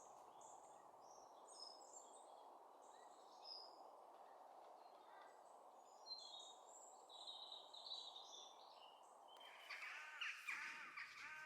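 Faint high chirps from small birds over a steady low background hiss, then crows cawing repeatedly from about nine and a half seconds in.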